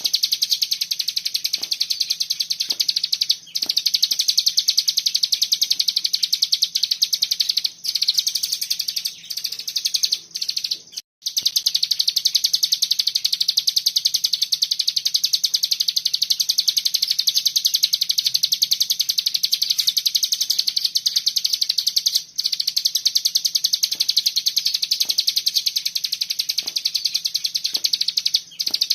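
Cigun songbird singing a dense, rapid-fire trill of very fast repeated high notes (the 'bren' style), running almost without pause and breaking off only briefly a few times.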